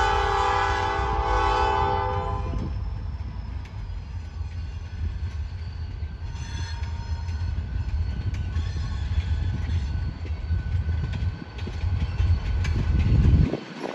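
A diesel locomotive's air horn sounds a chord of several steady notes, breaking off about two and a half seconds in. The locomotives' diesel engines then rumble and the train rolls past. The rumble swells near the end and cuts off suddenly.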